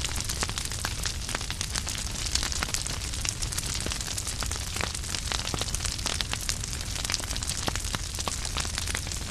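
Wood fire burning in a fireplace: continuous crackling with many sharp pops over a low, steady rumble of the flames.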